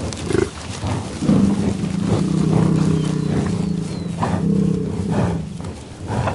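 A large farm animal's long, low call, held for about four seconds from just over a second in, with shorter calls around it.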